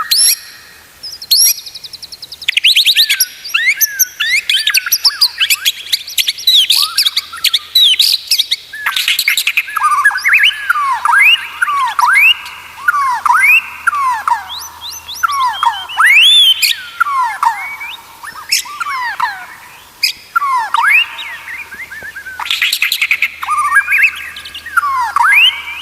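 White-rumped shama (murai batu) singing a loud, varied song of whistles and rapid trills. Through the middle it repeats a downward-sweeping whistled phrase at a steady pace, about one and a half per second.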